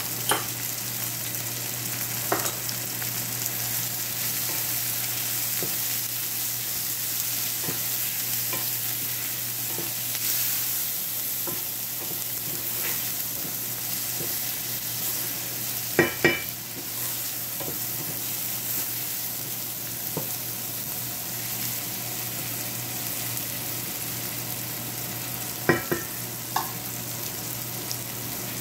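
Onions, tomatoes and green chilies with ground spices sizzling in a nonstick frying pan, a steady frying hiss as they are stirred with a wooden spatula. A few sharp knocks of the spatula against the pan stand out, a pair about halfway through and a cluster near the end.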